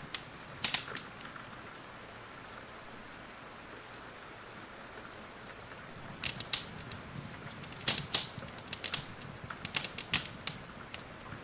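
Wood fire crackling with sharp pops and snaps over a steady hiss of rain. A couple of snaps come near the start, then a quiet stretch, then a close run of pops through the second half.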